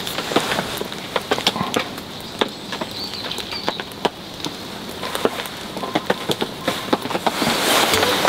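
Light rain pattering, with irregular sharp ticks of drops landing close by.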